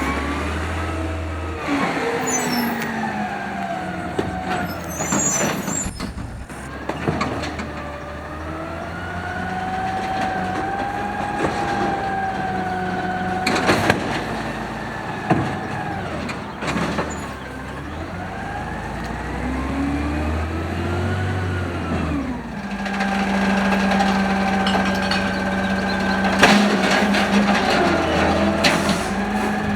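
2012 automated side-loader garbage truck's engine revving up and falling back several times, with a few sharp metal bangs in the middle, then settling into a steady drone for the last several seconds.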